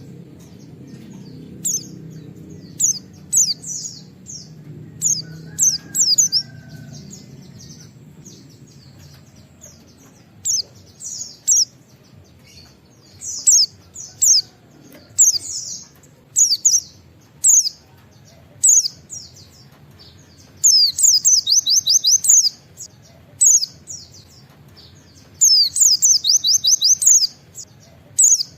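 White-eye (pleci) singing 'wit-wit': short high chirps scattered throughout, with two fast runs of rapidly repeated notes in the second half.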